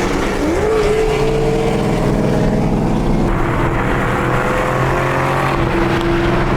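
Car engine running under way, with a brief rise in revs about half a second in, then a steady pull.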